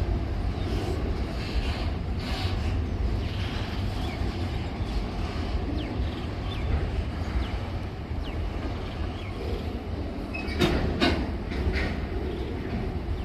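Freight train rolling across a river bridge: a steady low rumble of wheels on rail, with faint brief squeaks and a few sharp clacks near the end as wheels pass over rail joints.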